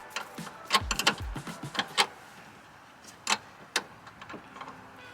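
Hand tools being handled and knocked about: a string of sharp metallic clicks and clinks, with a couple of dull thumps in the first second and a half.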